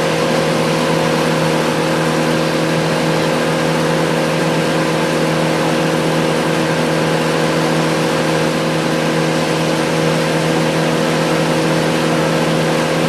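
Heavy equipment engine running at a steady speed, a constant hum with no change in pitch or level.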